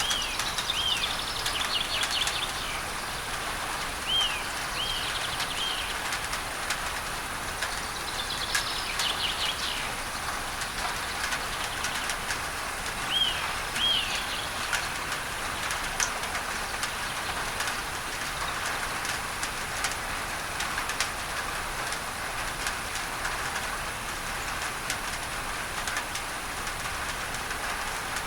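Steady rain on a tin roof under an even hiss of masking noise, with individual drops ticking. A bird calls in short arched chirps, usually in pairs, a few times in the first half.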